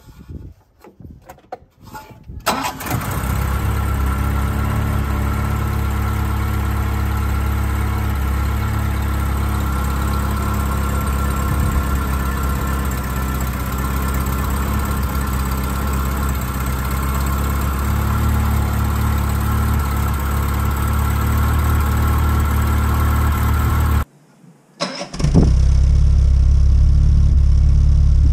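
1975 BMW 2002's 2.0-litre M10 four-cylinder engine cold-starting: it catches about two and a half seconds in and settles into a steady idle. After a short gap near the end it is heard at the tailpipe, with a deeper exhaust note.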